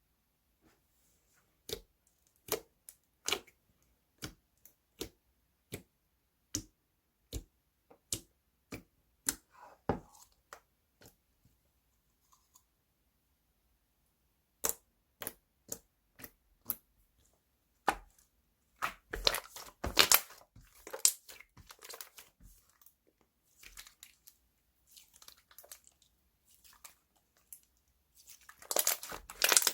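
Slime being handled by hand: a run of sharp clicks about once a second, then bursts of dense crackling and crunching as it is squeezed and worked, twice in the second half.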